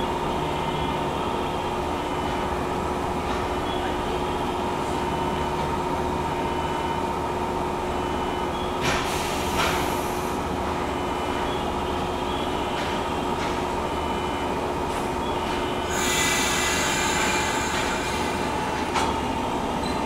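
JR West 115 series electric train standing at a station platform, its equipment humming steadily on two tones. A brief hiss comes about nine seconds in, and a longer, louder hiss about sixteen seconds in.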